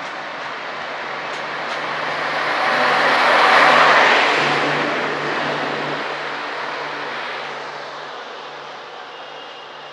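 A train passing: its noise swells to a peak about four seconds in, then fades as it moves away, with a steady low hum underneath.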